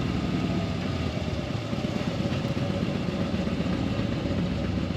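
Motorcycle engine running steadily as it rides along.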